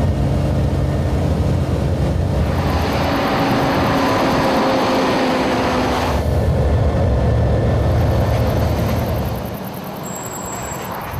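Scania R-Series truck running with a steady low hum, joined about two seconds in by a broad rushing noise with a slowly falling tone that stops abruptly about six seconds in; the sound gets quieter near the end.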